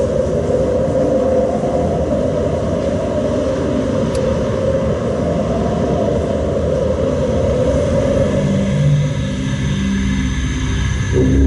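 Steady, loud rumbling noise, likely a storm or scene-change sound effect, with low held music tones coming in about eight seconds in.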